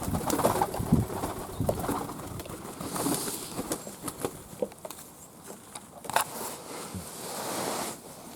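Fantail pigeons cooing in their loft, with scattered short clicks and scuffles, and a soft rushing noise near the end.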